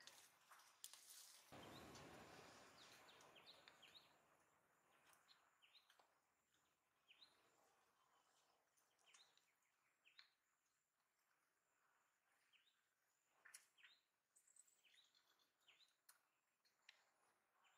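Near silence with faint outdoor ambience: scattered short, high bird chirps, and a brief soft rustle near the start.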